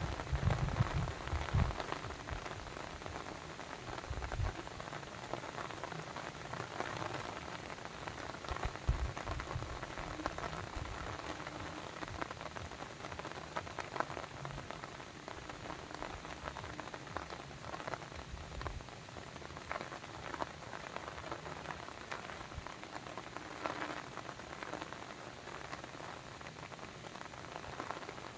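Steady rain falling, an even hiss with many separate drops pattering on surfaces. There is some low rumbling in the first couple of seconds.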